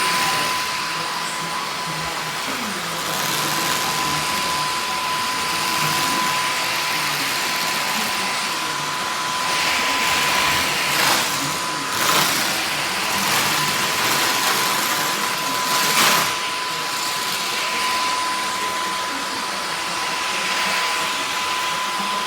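Dyson Gen5outsize cordless stick vacuum running steadily: a rush of air with a high steady whine, and a few brief knocks and rattles around the middle as it vacuums.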